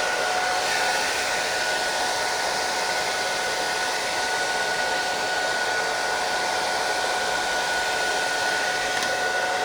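Electric hot-air blower running steadily, used to warm vinyl decals: a constant airy rush with a steady two-note whine.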